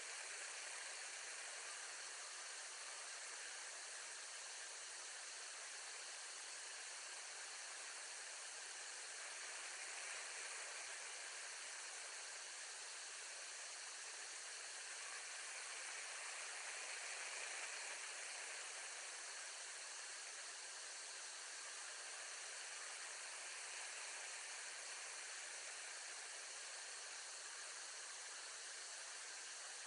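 Steady, even hiss with no distinct calls or knocks, like a nest camera's microphone noise.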